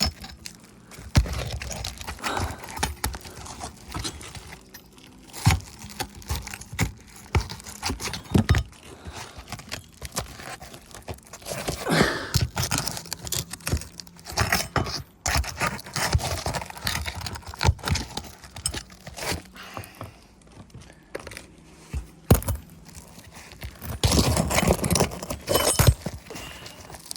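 Brittle roof shingles being worked and torn loose around their nails: irregular scraping and tearing with many sharp knocks, and a longer stretch of scraping near the end.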